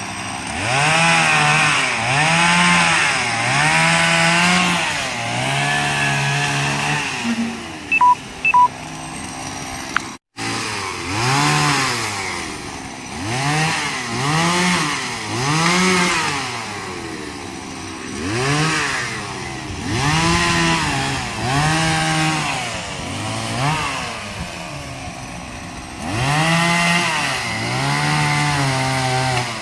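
Chainsaw engine revving up and down again and again, its pitch climbing and falling every second or two as it is throttled while cutting. Two short beeps sound near the eight-second mark.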